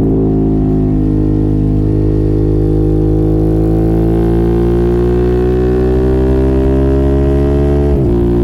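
Motorcycle engine with an aftermarket exhaust pulling under load. Its note rises slowly, then breaks briefly near the end, as at a gear change.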